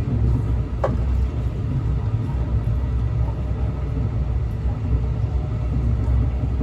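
Steady low rumble of a train, with a single short click about a second in.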